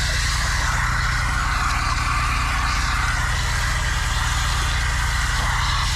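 An engine idling steadily, with a steady hiss over it.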